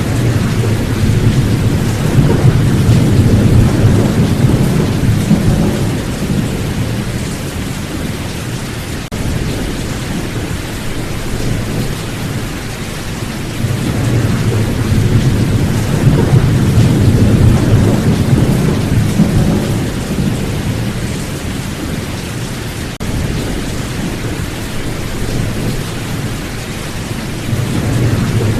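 Steady heavy rain with low thunder rumbling in long swells that build and fade: twice, and once more starting near the end.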